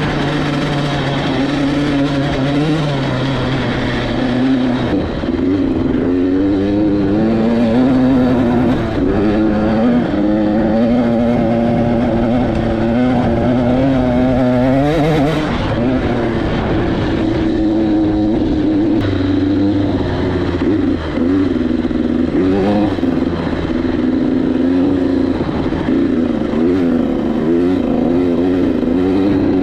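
KTM 85SX single-cylinder two-stroke dirt bike engine under way, its pitch climbing and dropping again and again as the throttle is worked through the gears. About halfway through it revs sharply high and falls away.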